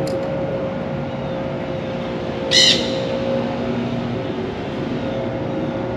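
A bird gives one short, harsh squawk about two and a half seconds in, over a steady low hum.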